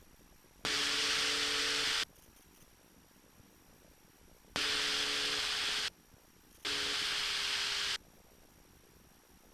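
Three bursts of radio static over the aircraft's headset intercom, each about a second and a half long, starting and stopping abruptly: a loud hiss with a low steady hum in it, as when another station keys the radio without clear speech.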